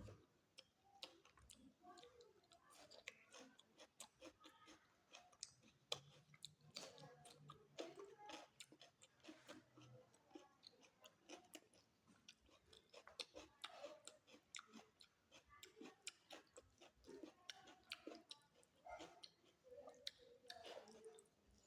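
A person chewing food close to the microphone: faint, repeated wet mouth clicks and smacks.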